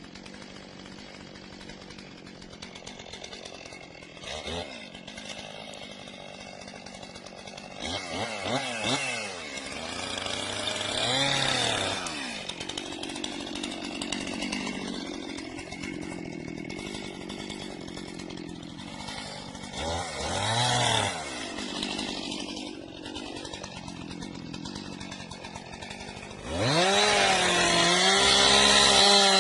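Chainsaw engine running at low revs and briefly revved up and let back down several times, then opened to full throttle near the end and held there at a steady high pitch.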